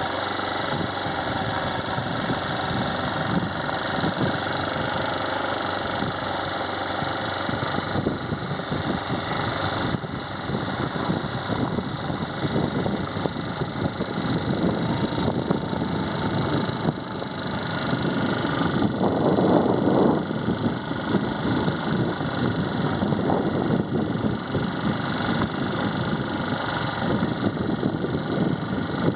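A vehicle's engine running steadily with continuous rumbling noise, louder for a moment a little past the middle.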